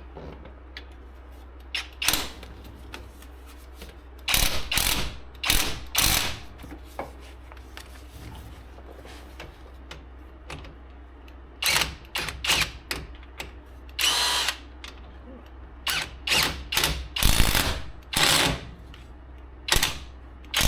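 Power tool run in short bursts of about half a second, a dozen or so in all, driving in the wheel bearing hub bolts.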